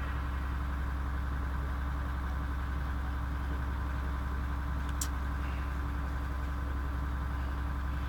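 Steady low electrical hum with faint hiss from the recording chain, in a pause between verses of Quran recitation. A single faint click comes about five seconds in.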